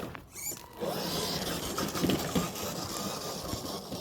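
Small electric motor and gearbox of an FMS FJ40 RC scale crawler whirring as it drives. It drops off briefly just after the start, then resumes steadily.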